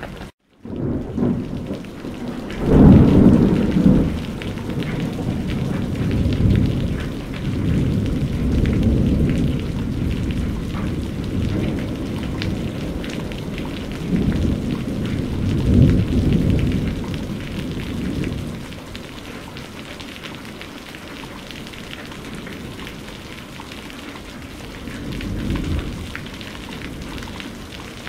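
Rain falling steadily with thunder rumbling low several times, loudest about three seconds in and again around the middle. The sound cuts out completely for a moment at the very start.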